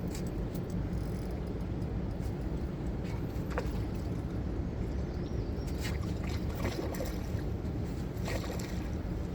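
Steady low rumble of wind and river water on the microphone, with a few short clicks scattered through it.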